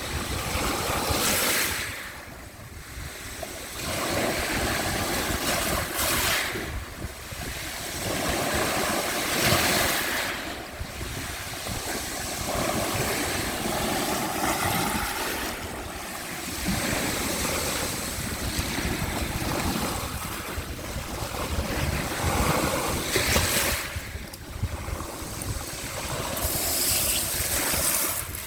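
Sea waves washing onto the shore, the surf swelling and ebbing every few seconds, with wind rumbling on the microphone.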